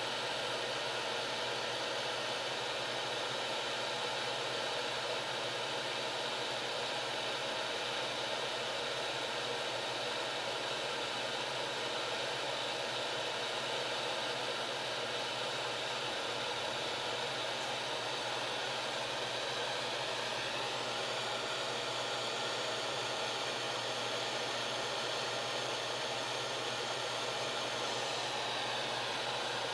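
Hot-air soldering gun's blower running steadily, a constant airy rush with a faint whine, shifting slightly in tone about two-thirds of the way through.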